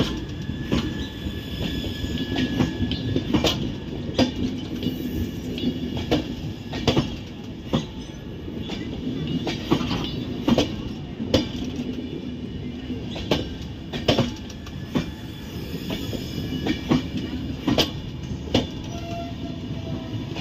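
Passenger coaches of an express train rolling past at speed: a steady rumble of wheels on rail with sharp clacks one to two a second as the wheelsets cross rail joints.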